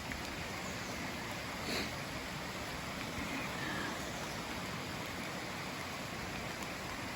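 Steady hiss of heavy rain falling, with a faint short sound about two seconds in.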